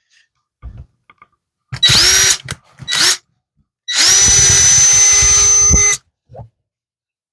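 Power drill run in three bursts, with a larger bit enlarging a hole: a short run, a brief blip, then a steady run of about two seconds. Each time the motor whines up to speed and then cuts off sharply.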